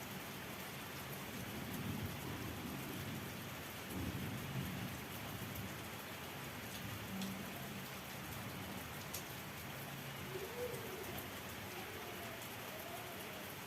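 Steady rain falling, with low rumbles of distant thunder about two and four seconds in.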